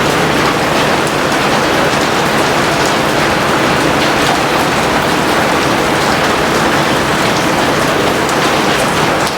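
Rain falling steadily: a dense, even hiss with scattered sharper drop hits.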